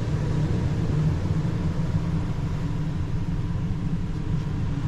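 Steady low rumble, even throughout with no distinct events.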